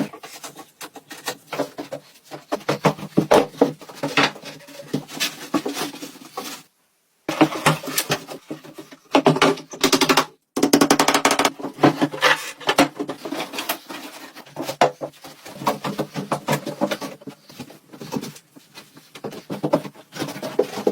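Irregular knocking and scraping of hand-tool work, with two brief cuts to silence, one about seven seconds in and one about ten seconds in.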